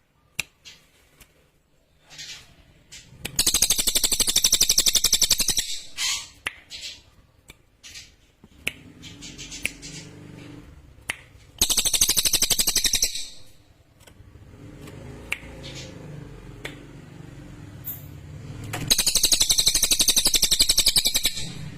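Cililin songbird singing in three bursts of rapid, sharp, very high trilling notes, each lasting two to three seconds.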